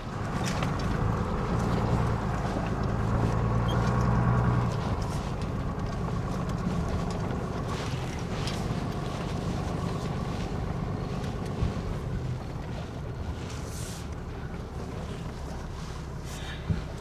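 Dually pickup truck's engine running at low speed while crawling up a rocky off-road trail, working a little harder for the first few seconds, with scattered knocks and clicks.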